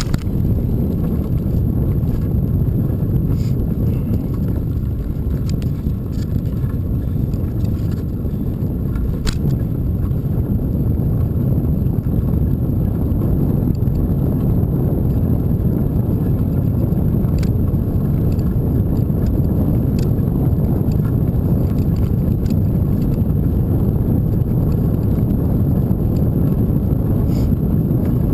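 Steady low rumble of wind and riding noise on the microphone of a moving bicycle, with faint ticks and rattles now and then.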